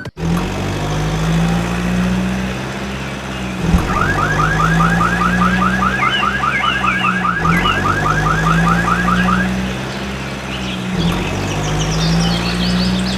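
Steady low motor drone that dips briefly about every four seconds, as if looping. A rapid run of rising chirps, about four or five a second, comes through the middle.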